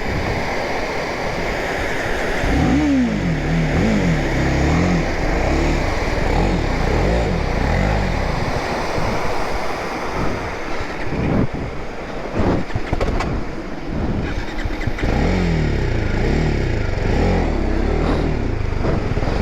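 The single-cylinder engine of a BMW G 310 GS motorcycle is revved up and down again and again as the bike is worked down a rough, rocky track. There are a few sharp knocks in the middle.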